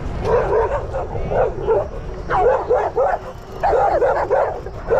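Dogs barking over and over, short sharp barks about three a second.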